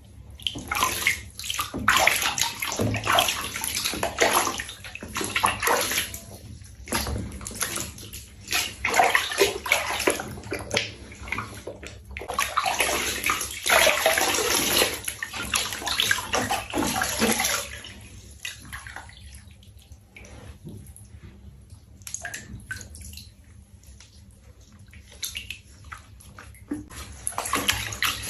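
Water splashing and sloshing in a tub as a cat is bathed, in irregular bursts that thin out and grow quieter over the last third.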